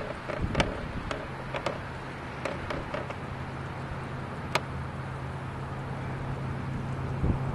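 A motor vehicle's engine running nearby: a steady low hum that sets in about a second in and grows a little louder toward the end, over an outdoor background haze with scattered sharp clicks.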